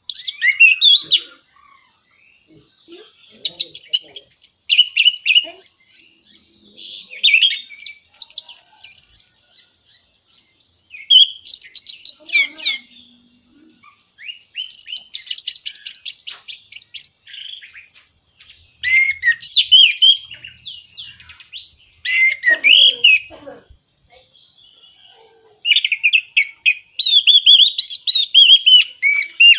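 Orange-headed thrush singing in bursts of varied whistled phrases and rapid trills, with short pauses between phrases. This is a lure song used to set caged birds singing.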